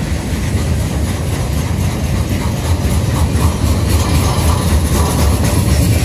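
Freight train of loaded bulkhead flatcars rolling past: a steady low rumble of steel wheels on rail.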